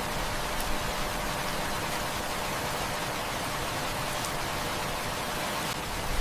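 Heavy rain falling in a steady hiss, with a few faint clicks or pops over it, such as wood-fire crackles.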